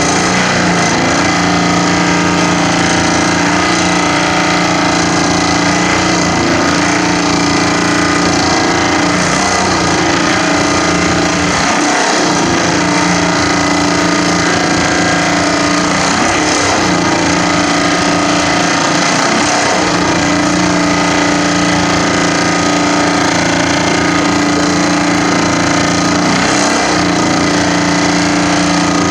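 Vibratory pile hammer driving steel sheet piles into hard ground: a loud, continuous mechanical drone, steady in pitch, not the separate blows of an impact pile driver.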